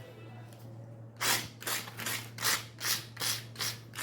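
Sandpaper rubbed back and forth over the metal wire mesh of an electric mosquito racket, cleaning the mesh, in quick even strokes about two to three a second that start again about a second in after a short pause.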